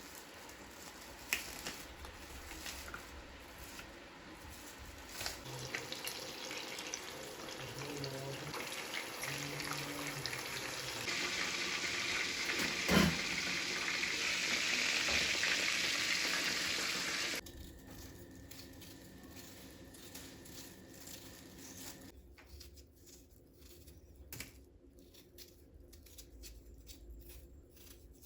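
Kitchen tap running into a sink, the flow growing stronger and then shut off abruptly about two-thirds of the way through. A few light clicks and knocks of handling are heard around it, one sharper knock while the water runs.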